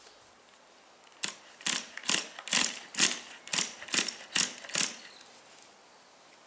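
Recoil pull-starter of a Tamiya TGS nitro RC car being yanked nine times in quick succession, about two pulls a second, with the engine not catching.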